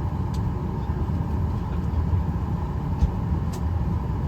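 Steady low rumble of an airliner cabin parked at the gate before pushback, with a few faint clicks.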